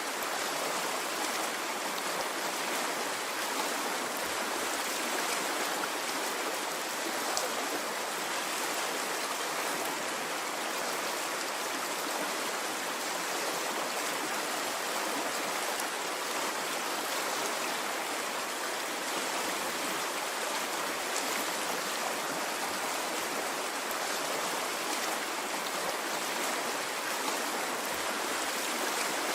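A stream of water flowing, a steady rushing sound without pauses or swells.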